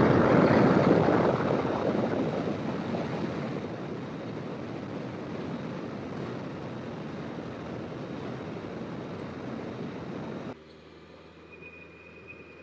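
Wind rush and road noise from a moving motorcycle, loudest at first and easing to a steady level, then cut off suddenly near the end to a much quieter background.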